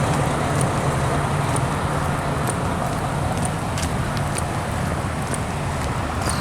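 Steady road traffic noise from cars held up in a traffic jam: a continuous low engine hum under an even rush of sound. Faint high clicks come about once a second.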